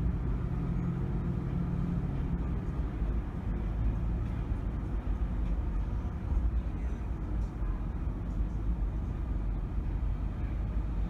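Car driving at a steady pace: a low, even rumble of road and engine noise with no sudden events.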